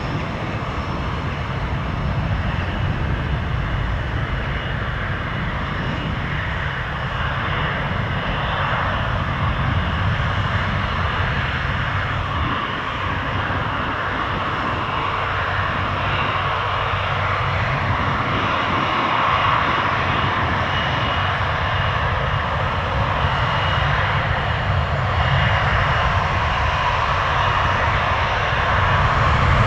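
Airbus A330-343's Rolls-Royce Trent 700 jet engines running: a steady jet rumble and hiss with a faint high whine, growing slowly louder.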